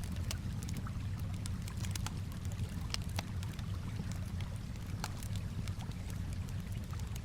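Campfire crackling, with many irregular sharp pops and snaps, over a steady low wash of calm water.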